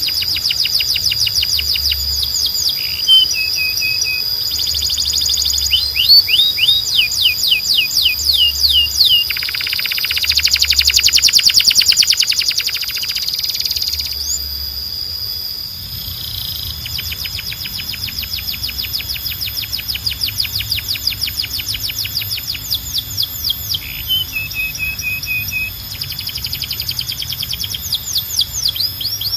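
Canary singing a long, continuous song of rapid trills and fast-repeated chirping notes, high-pitched, with a loud dense trill about ten seconds in.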